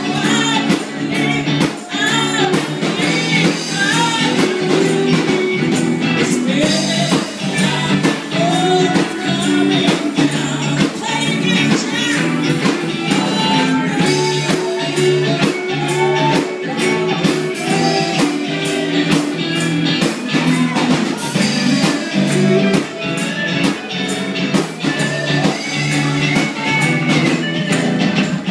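A song: voices singing over a steady, fast percussion beat.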